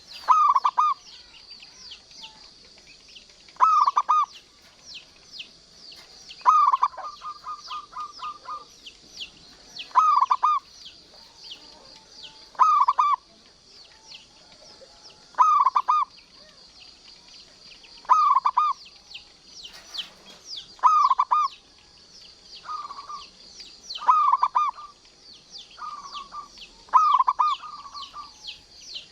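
Zebra dove (local perkutut) singing its rolling cooing phrase about every two and a half to three seconds, about a dozen times. A few phrases end in a rapid run of short repeated notes. Constant high chirping of small birds runs behind it.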